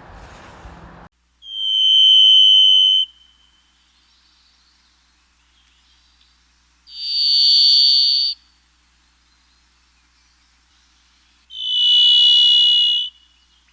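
Varied thrush singing: three long whistled notes a few seconds apart, each at a different pitch. The first is a clean whistle; the second is higher and the third a little above the first, both buzzy and metallic.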